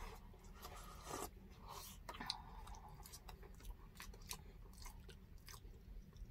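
Faint chewing and mouth sounds of people eating, with a few short, soft clicks scattered throughout.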